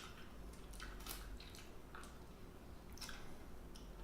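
Faint, wet mouth sounds of a person chewing food close to the microphone, with scattered soft smacks and clicks.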